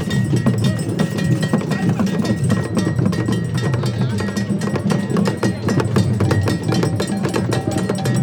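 Percussion-led music: drums with a rapid, sharp clacking of struck percussion on top, running at an even level.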